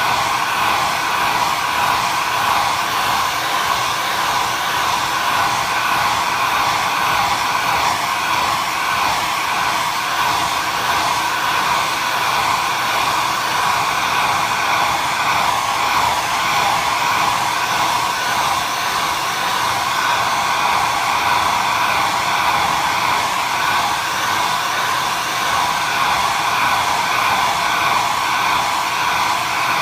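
Hand-held hair dryer blowing steadily without a break: an even rush of air with a steady whining tone from its motor and fan.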